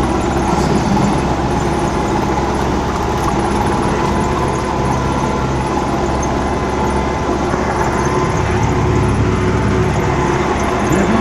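MTZ 820 tractor's four-cylinder diesel engine running steadily.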